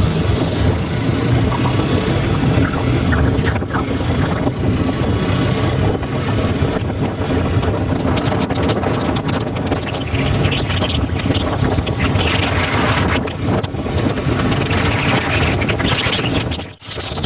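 Wind buffeting the microphone of a moving motorbike or scooter, over the vehicle's engine and road noise. The sound cuts out briefly near the end.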